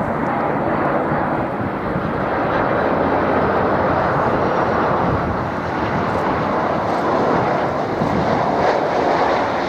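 Jet airliner engines on approach to land, a loud, steady rumbling noise.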